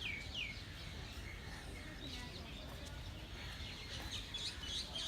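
Scattered high bird chirps outdoors, two sliding-down calls right at the start and a quick run of chirps near the end, over a steady low background rumble.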